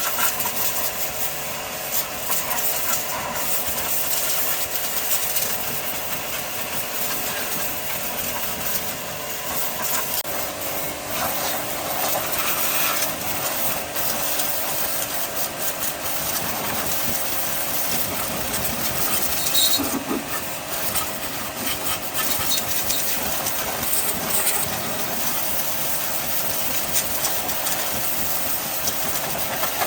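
A machine running steadily with a hiss and a few held tones, which shift slightly about ten seconds in.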